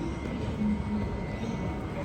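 Steady low rumble and hum of a Mariyung D-set electric train standing at the platform, with a faint steady high-pitched tone.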